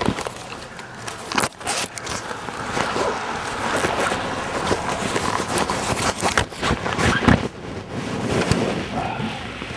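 Wind buffeting the microphone in a snowstorm, a rough rushing that swells and falls, broken by irregular knocks and crackles.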